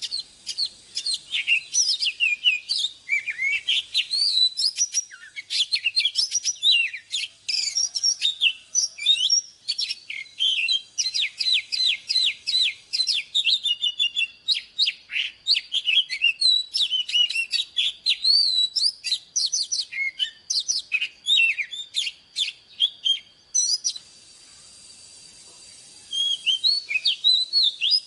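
Oriental magpie-robin singing: a fast, varied run of whistles, trills and rapidly repeated notes. It breaks off for about two seconds near the end, then starts again.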